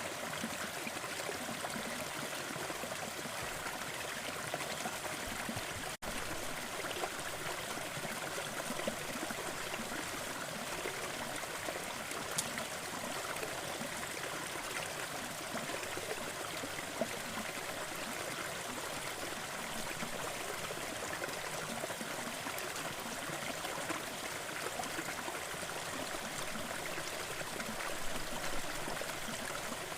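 Gentle forest waterfall, water splashing and rushing steadily, with a momentary dropout about six seconds in.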